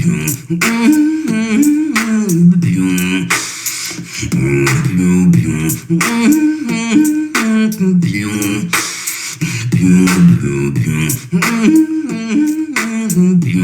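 Solo beatboxing: sharp vocal snares and hi-hat clicks over a pitched vocal bass line that steps up and down in a repeating pattern.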